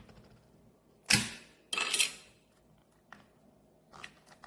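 Air-conditioner remote's battery compartment being worked open: two loud plastic scrapes about a second and two seconds in, each lasting about half a second, as the cover and a battery are pulled out, then a few light clicks.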